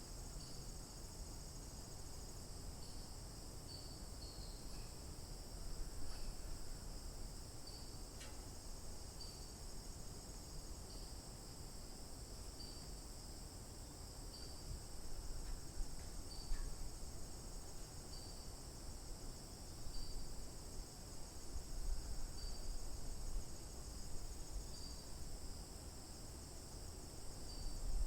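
Steady chorus of crickets and other insects, a continuous high-pitched trill, with faint short chirps repeating about every second and a half. Low rumbles rise and fall now and then.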